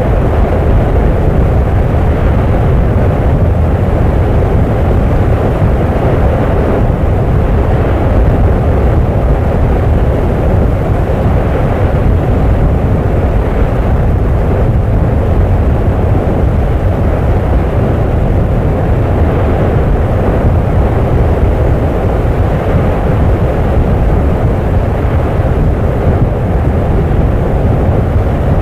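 Volcanic eruption: a loud, steady, deep rumble that does not let up.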